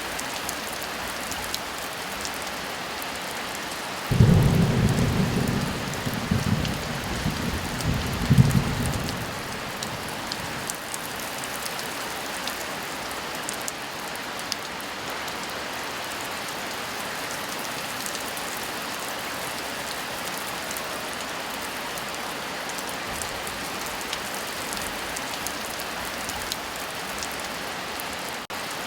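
Heavy rain falling steadily. About four seconds in, a sudden low peal of thunder rolls for about five seconds, surging twice before it fades back into the rain.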